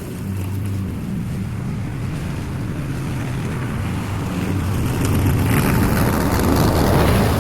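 Lawn mower engine running steadily while mowing overgrown grass, growing louder and rougher over the last couple of seconds.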